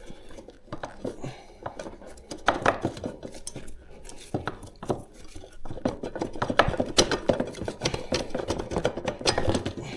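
Irregular metallic clinks and knocks as the Africa Twin's front brake calipers are wiggled free of the brake discs, where they are a bit stuck.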